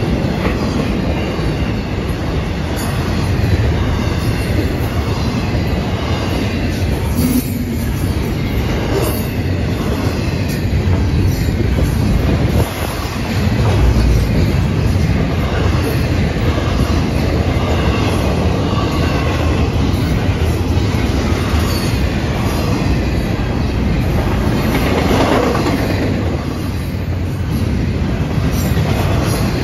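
Florida East Coast Railway intermodal freight train's double-stack and container well cars rolling past at close range: steady, loud noise of steel wheels running on the rails.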